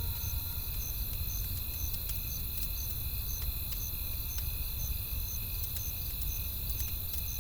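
Crickets chirping in a steady rhythm, about two chirps a second, over a campfire crackling with scattered small pops and a low rumble.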